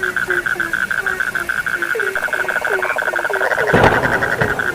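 Chorus of calling frogs: a steady, rapid pulsing trill over short low croaks that slide down in pitch, about three a second. A louder, closer croak stands out about three-quarters of the way in.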